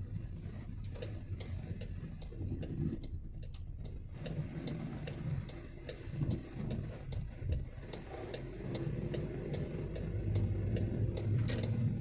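MG5 Turbo engine and road noise heard from inside the car while driving, with a regular run of sharp ticks, about two or three a second. The engine gets louder near the end as the car accelerates.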